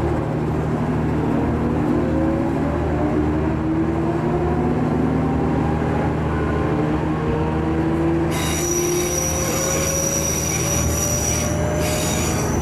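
Diesel railcar running along the line, its drive note rising slowly in pitch over a steady low hum. About eight seconds in, a high-pitched squeal from the steel wheels on the rails joins it and carries on to the end.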